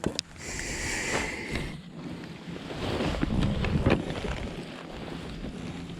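Handling noise aboard a fishing kayak: scattered knocks and clicks, with a hiss lasting about a second near the start, and wind on the microphone.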